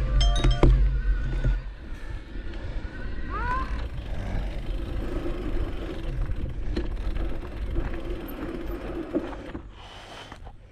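A music track with heavy bass ends about a second and a half in, giving way to the steady running of motocross motorcycle engines, with a brief rising rev about three and a half seconds in; the sound fades near the end.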